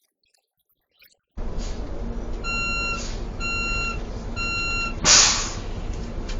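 A steady low rumble sets in suddenly about a second and a half in. Over it come three evenly spaced electronic beeps, each about half a second long and about one a second, like a vehicle warning or reversing beeper. Just after the third beep there is a short, loud burst of noise.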